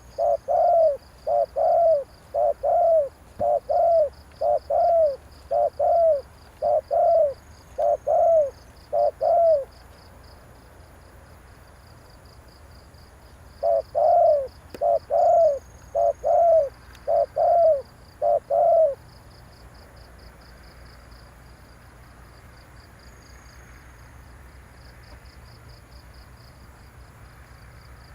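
Spotted dove cooing: a long run of loud, evenly spaced coos, a pause of a few seconds, then a second run that stops about 19 seconds in. It is the dove's provoking call, used to lure wild doves.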